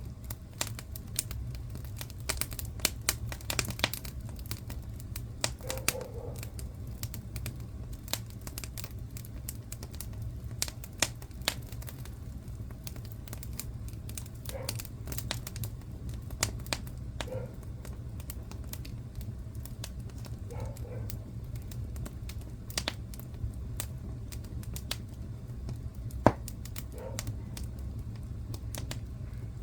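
Wood fire crackling in a fireplace: a steady low rumble of the burning fire under constant irregular snaps and pops, with a sharper pop near the end.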